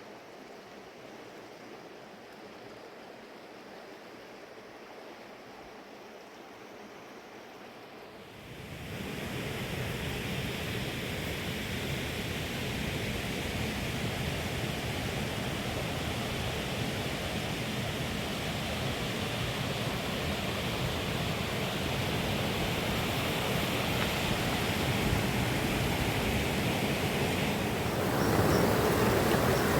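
Mountain river's water rushing as a steady noise. It gets much louder suddenly about eight seconds in and steps up again near the end.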